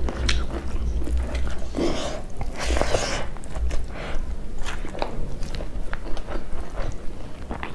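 Close-miked chewing and wet mouth sounds of someone eating buffalo meat curry and rice, with many short lip-smacks and clicks, over a steady low hum.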